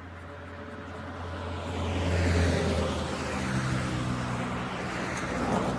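A motor vehicle going by, its engine noise growing louder over the first two seconds and then holding.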